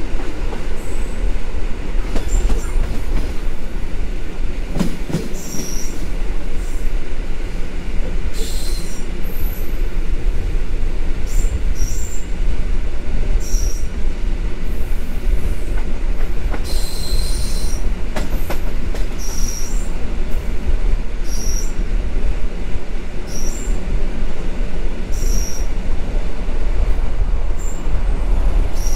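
EN57 electric multiple unit running along the line, a steady loud rumble of wheels on rail, with short high squeals from the wheels recurring every second or two and an occasional sharp knock.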